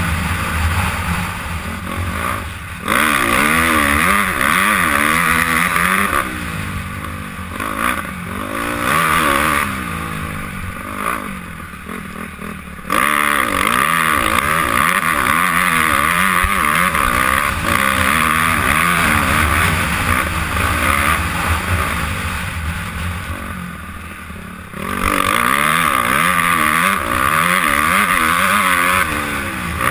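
Honda CRF250R motocross bike's four-stroke single-cylinder engine heard from the rider's helmet, its pitch rising and falling as the throttle opens and closes. The throttle comes back on hard three times, about three, thirteen and twenty-five seconds in, and each time the engine stays loud for several seconds.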